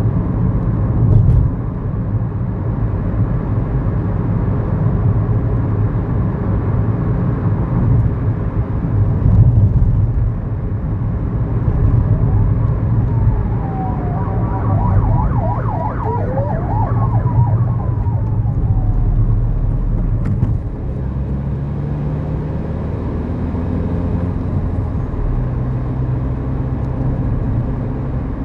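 Inside the cabin of a 2011 Kia New Morning, its 999cc four-cylinder SOHC engine and the road noise run steadily under way. Around the middle, a faint siren wails and warbles for several seconds. About two-thirds of the way in, the engine note changes and settles to a steadier, lower sound.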